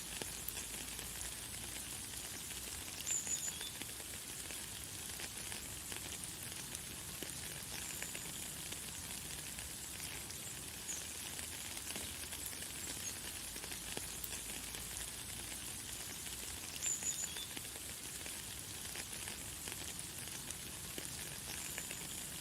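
Light, fine rain falling steadily: an even high hiss with many tiny drop ticks. A bird gives short high chirps now and then, loudest a few seconds in and again about three-quarters of the way through.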